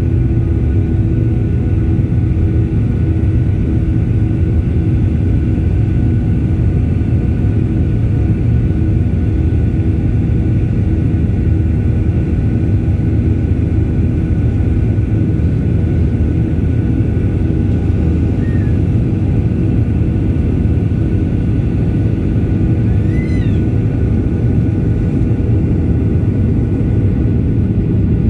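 Airliner's engines running: a loud, steady rumble with a constant hum through it.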